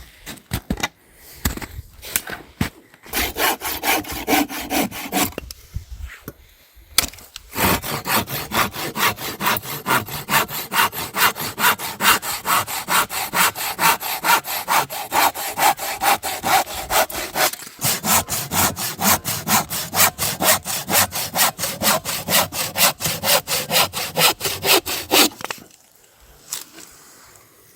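Hand saw cutting through wood in steady back-and-forth strokes, about three a second. A few scattered knocks come first, and the sawing stops near the end.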